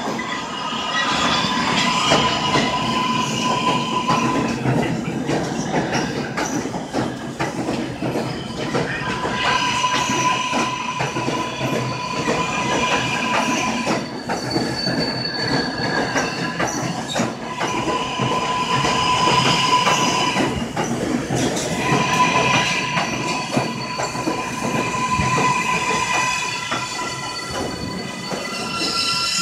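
A train running through the station: a steady rumble of wheels on rail, with steel wheels squealing in four long stretches of a few seconds each.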